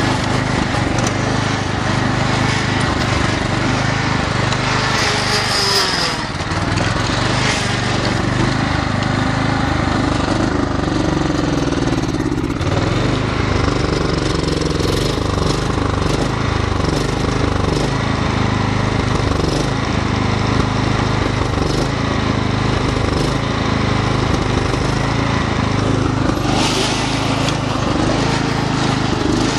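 Small tractor engine running steadily under way, its pitch dipping and rising again a couple of times as it is loaded and throttled.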